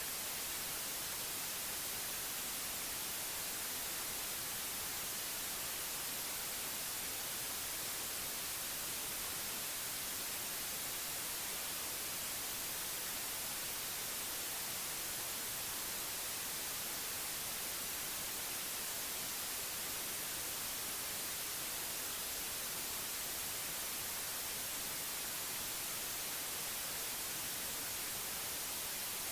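Steady synthetic white noise: an even, unchanging hiss, brightest in the high frequencies, with no breaks or changes.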